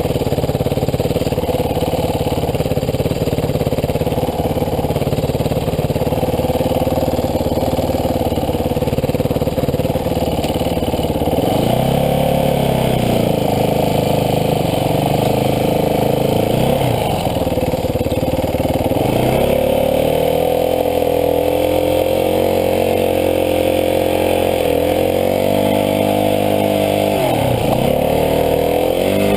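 Dirt bike engine running at a steady speed, then revving up and down several times from about halfway through, with a sharp drop and recovery near the end.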